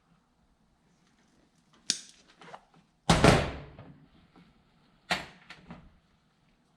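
Three sharp knocks and clatters of hand tools being picked up and set down, the middle one about three seconds in the loudest, with a short ringing tail.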